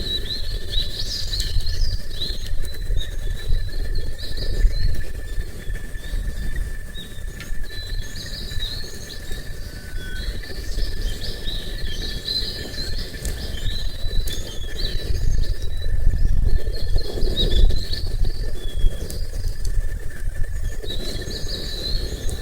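Small birds chirping and twittering, one call after another, over a steady low rumble, with a faint constant high tone underneath.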